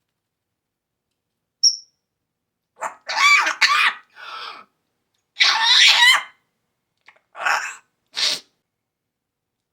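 Pet parrot vocalizing: a brief high whistle, then a series of short bursts of raspy, pitched calls and chatter.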